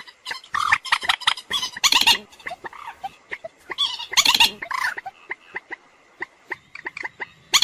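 Common moorhen calling: several loud, harsh call bursts in the first five seconds, then a run of short, quick notes.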